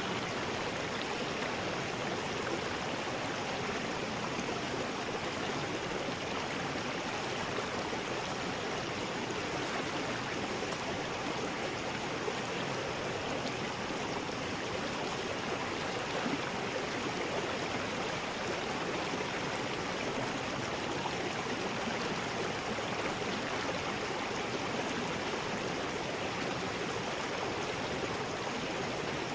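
River rapids: water rushing over rocks in a steady, even roar of white water that does not change.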